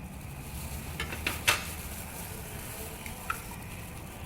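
A few light clicks and knocks of eggs and kitchenware being handled, one sharper than the rest about a second and a half in, over a steady low background hiss.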